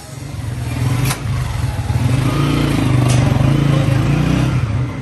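An engine running close by, getting louder over the first second, holding steady, then dropping off near the end, with two sharp clicks along the way.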